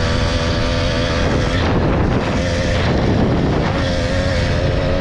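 Small motorbike engine running at a steady speed while riding, with wind rushing on the microphone. A little under two seconds in, the engine note wavers and shifts for a couple of seconds, then settles back to a steady tone.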